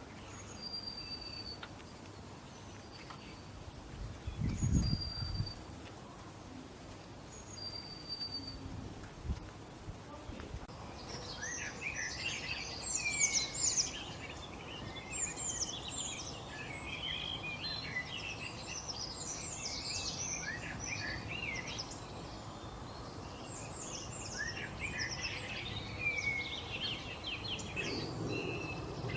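Birdsong: at first a short, high whistled note repeated about every two and a half seconds, with a low thump about four seconds in. From about eleven seconds on comes a dense, fast twittering of many high chirps and quick downward sweeps.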